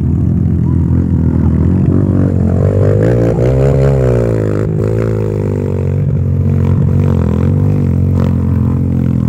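Motocross motorcycle engine running loud and steady, its pitch sagging and then climbing again about three to four seconds in as the throttle changes.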